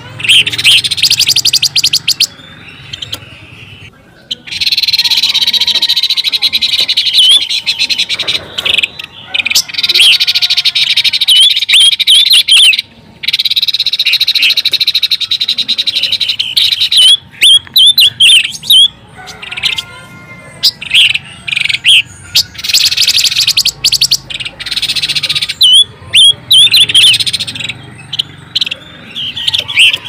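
Pancawarna bird calling, played as a lure call for trapping birds: long runs of rapid high chirps mixed with short rising-and-falling notes, in bouts of a few seconds with short breaks between.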